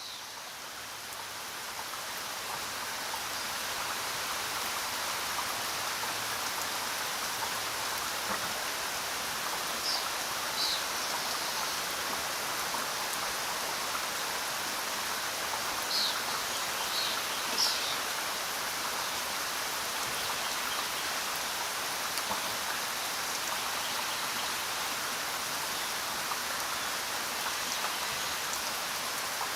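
Steady rain falling, an even hiss that swells up over the first few seconds and then holds level. A few brief high-pitched sounds come through around the middle.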